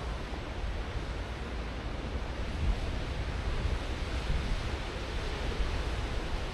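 Ocean surf washing steadily onto the shore, with gusts of wind rumbling on the microphone.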